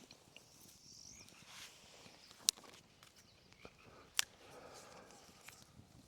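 Two sharp snaps of wood, about a second and a half apart, over faint outdoor quiet, with a brief high bird chirp early on.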